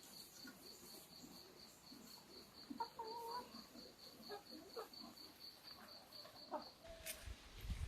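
Chickens clucking faintly, with short scattered calls. Over them a high, thin call pulses steadily about five times a second and stops about seven seconds in.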